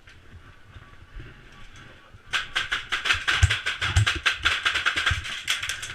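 Airsoft guns firing, a rapid, uneven clatter of sharp clicks that starts about two seconds in and goes on, with a few dull thumps among them.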